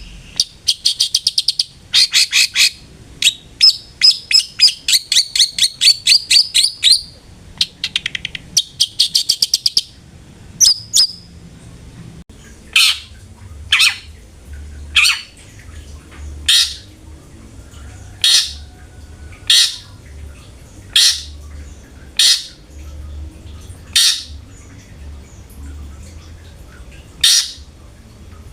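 Long-tailed shrike (cendet) calling: about ten seconds of fast, high chattering trills, then a run of harsh single calls about every second and a half.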